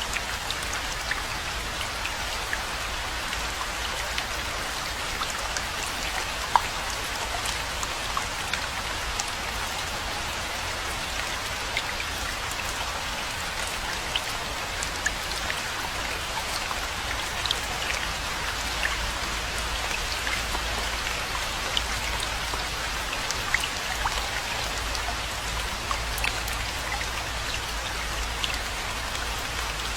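Steady rainfall, an even hiss with many separate drop ticks scattered through it, over a low steady rumble.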